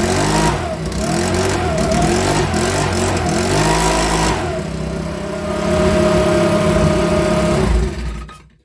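Makita BHX2500 leaf blower's 24.5 cc four-stroke engine running, revved up and down several times, then held at a steady speed before it stops near the end. The repaired non-runner now runs.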